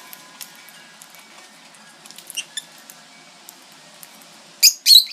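Lovebirds squabbling over a spray of millet: faint chirps and beak clicks, then two loud, shrill squawks in quick succession near the end.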